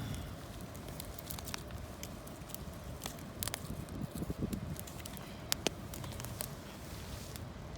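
Campfire of gathered branches and leaves burning, with irregular sharp crackles and pops over a steady low rush, and a brief louder rustle about four seconds in.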